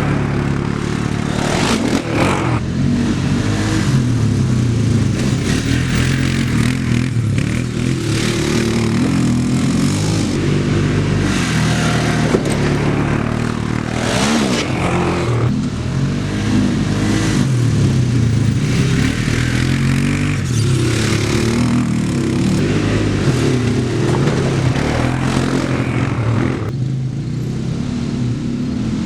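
Quad (ATV) engine running under way, its pitch rising and falling again and again as the rider works the throttle.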